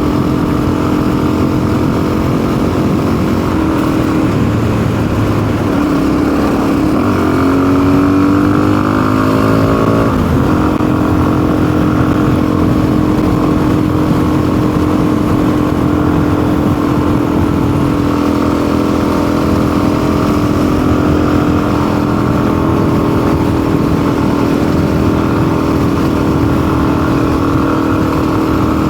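Custom-built motorcycle's engine running under way on the road. Its pitch climbs from about six seconds in, drops sharply at about ten seconds, then holds steady. The engine is not running cleanly, which the rider puts down to a carburettor mixture that needs leaning or richening.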